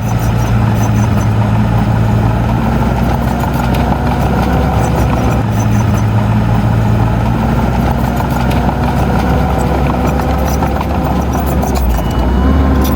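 Heavy diesel machine engine running steadily, with scattered light clicks over it.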